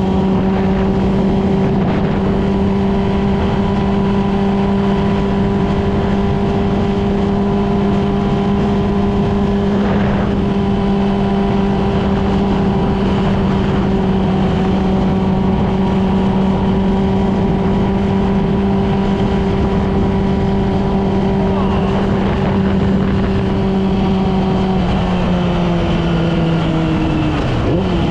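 Yamaha R6 inline-four engine running at a steady, high cruising speed under rushing wind, its pitch holding level, then dropping in a couple of steps near the end as the bike slows.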